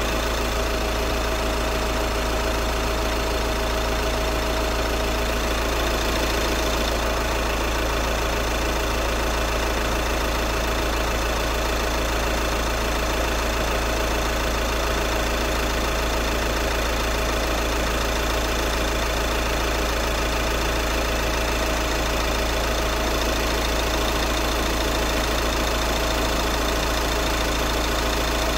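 Audi A6 C7 diesel engine idling steadily, run after a thermostat replacement and coolant refill to warm up and purge air from the cooling system.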